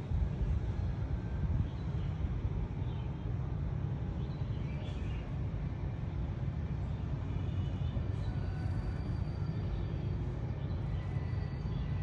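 Small birds chirping faintly now and then, over a steady low rumble of outdoor background noise.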